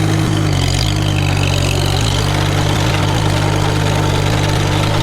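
Farmall H tractor's four-cylinder engine running at a steady speed.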